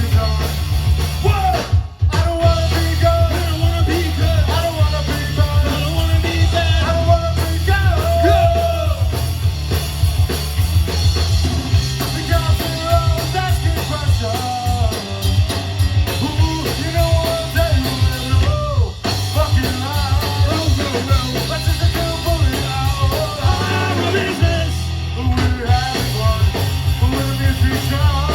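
Punk rock band playing live, with drum kit, bass and a singing voice. The music breaks off for a moment about two seconds in and again about two-thirds of the way through.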